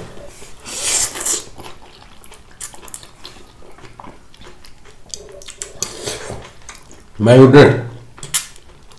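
Eating sounds from a hot bowl of hotpot: utensils clicking against the dish and a short airy slurp about a second in. A brief voiced sound comes near the end.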